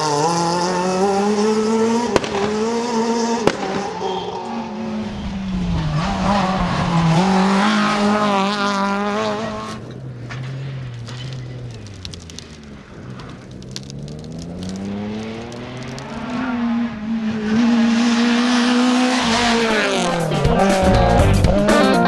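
Rally car engine revving hard, its pitch climbing and dropping repeatedly through gear changes, with two sharp pops a couple of seconds in. The engine note fades away in the middle, then rises again as a car comes back; music starts near the end.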